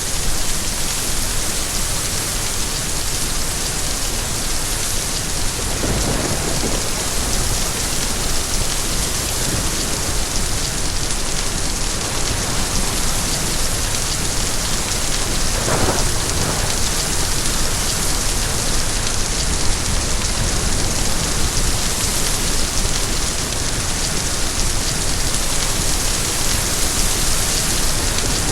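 Steady rain falling, a dense even hiss, with two brief louder swells about 6 and 16 seconds in.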